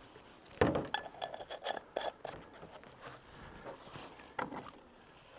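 Beehive equipment being handled: a series of knocks, clatters and scrapes of wooden hive parts and a feeder, busiest in the first two seconds or so.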